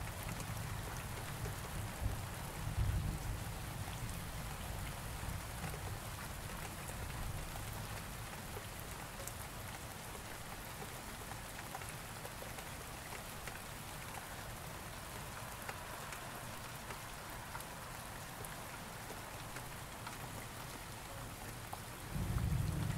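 Steady rain falling, with a low rumble of thunder dying away over the first few seconds and a new roll of thunder starting just before the end.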